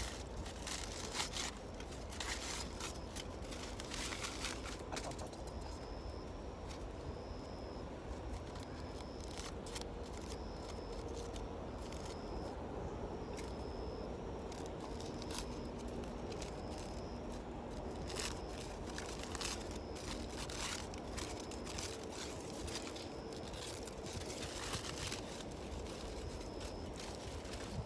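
Wood campfire crackling and popping, with irregular sharp snaps over a steady low rumble. A faint high-pitched chirp repeats about once a second.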